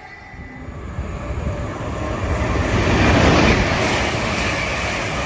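A train approaching and running through the station, its rumble and wheel noise on the rails growing louder to a peak about three seconds in, then staying loud.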